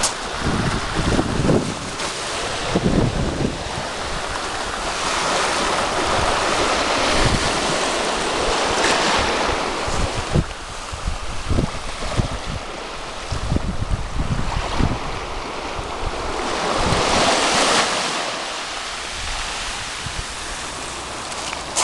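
Sea waves breaking and washing on the shore, swelling louder twice, with wind buffeting the microphone in low rumbling gusts.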